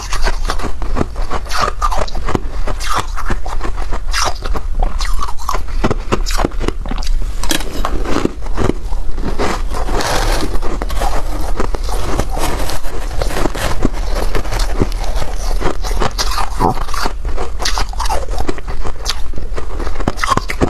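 Freezer frost being bitten and chewed close to the microphone: dense crisp crunching with some scraping, going on without a break. A steady low hum runs underneath.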